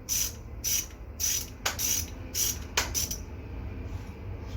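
Socket ratchet wrench being worked back and forth, its pawl clicking in short strokes about twice a second while tightening a nut on the bike's crank.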